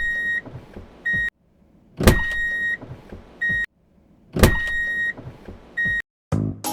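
An electronic beep pattern repeated three times, about two and a half seconds apart: a sharp click, then a held high beep of under a second, then a short second beep, with dead silence between repeats.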